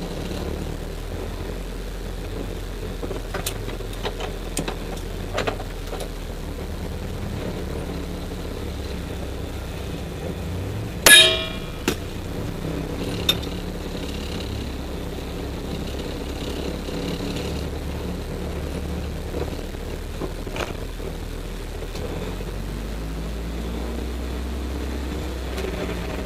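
Rally car's engine running at low revs, heard from inside the cabin as a steady low drone that grows a little louder near the end, with scattered light rattles and clicks. About eleven seconds in there is one sharp metallic clang.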